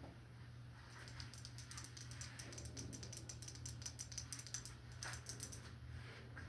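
Faint, quick run of light, crisp taps or clicks, about six a second, starting about a second in and stopping shortly before the end, over a low steady hum.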